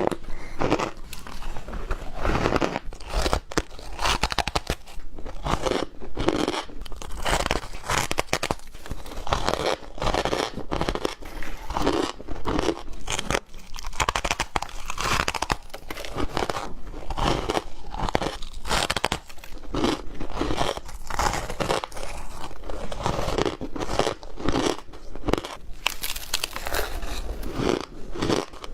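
Ice being bitten and chewed close to the microphone: a continuous run of crisp crunches, one hard on the next.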